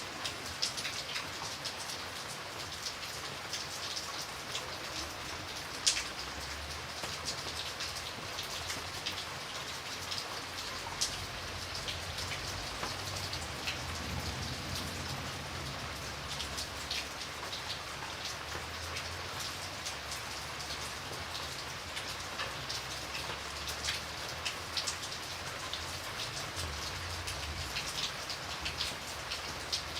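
Steady rain falling, with many individual drops ticking on a hard surface and a few louder single drops.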